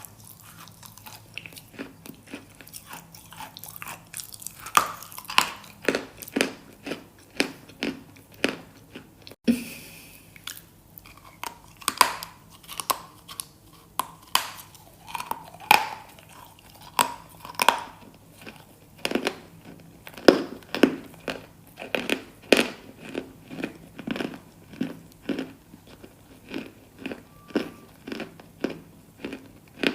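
Close-miked ASMR crunching: something hard and crunchy is bitten and chewed, with a steady run of sharp crunches about one or two a second.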